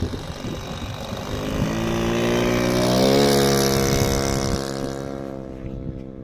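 Model aircraft glow engine revving up, its pitch rising for about a second and a half, then holding a steady high note as the sound fades. Low wind rumble on the microphone throughout.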